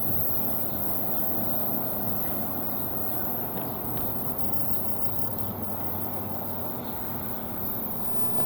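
Low, steady rumble of a commuter train on the move, slowly fading as it recedes.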